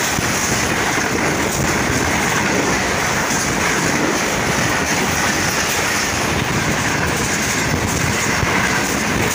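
Express passenger train running through the station at high speed without stopping: a loud, steady rush of wheels on rails and passing coaches.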